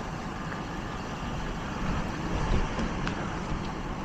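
Steady vehicle noise at a roadside: a low rumble with an even hiss over it and a few faint clicks.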